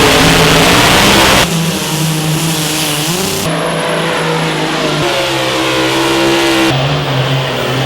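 Truck and tractor pull engines running loudly, in short clips spliced together so the engine pitch changes abruptly several times. The first second and a half is the loudest and roughest.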